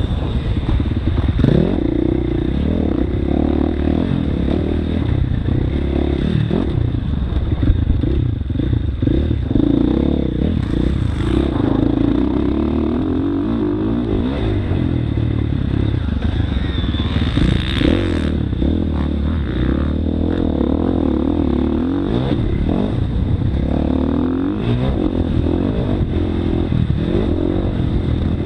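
Motocross bike engine running hard and revving up and down as it is ridden around a track, heard from a camera mounted on the rider or bike, with clatter from the machine throughout.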